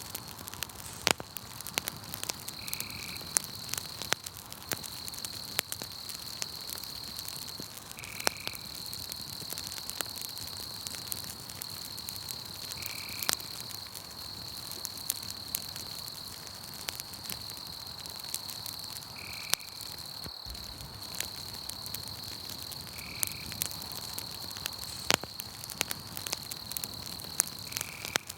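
Campfire crackling with frequent sharp pops, over a steady high-pitched insect trill and a short call repeating every few seconds.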